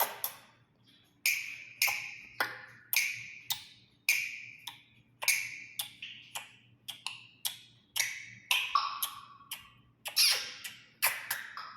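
A run of sharp, uneven taps or knocks, roughly two a second, each with a brief bright ring.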